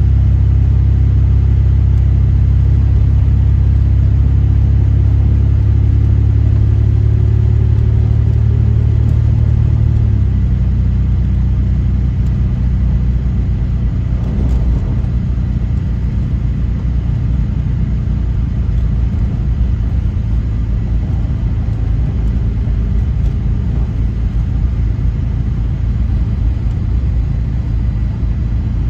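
Vehicle engine and road rumble while driving down a snowy mountain road. The engine's pitch rises slightly, then drops about a third of the way in, leaving a steady, rougher rumble.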